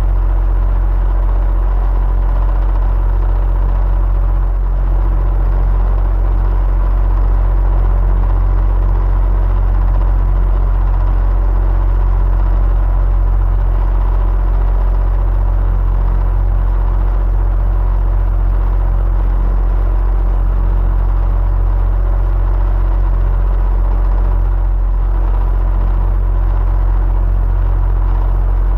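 Electric fan running steadily: a constant low hum of air and motor with a faint steady whine, unchanging throughout.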